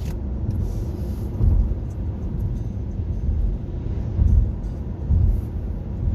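Steady road and tyre rumble heard inside the cabin of a moving 2021 Nissan Leaf electric car, with no engine note. The low rumble swells briefly a few times.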